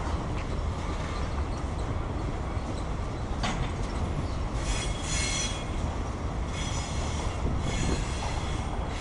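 Freight cars of a CSX mixed freight train rolling past with a steady low rumble. There is a sharp clank about three and a half seconds in, and high-pitched wheel squeal comes and goes three times in the second half.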